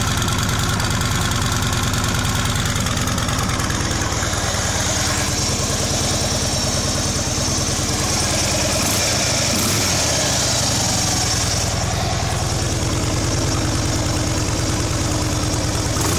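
2012 Harley-Davidson Ultra Limited's Twin Cam 103 V-twin idling through its stock exhaust, a steady running note that wavers briefly about halfway through.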